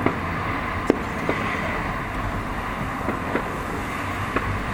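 Distant fireworks: several sharp, scattered pops over a steady outdoor rumble.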